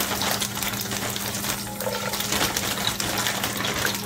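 Crinkle-cut potato fries sizzling in hot oil in a frying pan: a steady crackling hiss.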